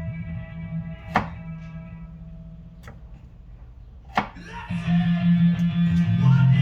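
Two sharp chops of a knife on a cutting board, about three seconds apart, over guitar rock music that grows louder about two-thirds of the way through.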